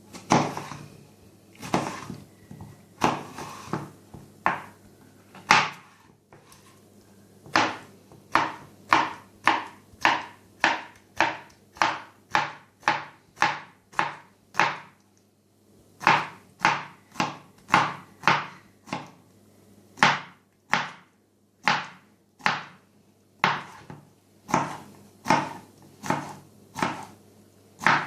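Kitchen knife chopping cucumber on a cutting board, about two chops a second, with a few short pauses between runs.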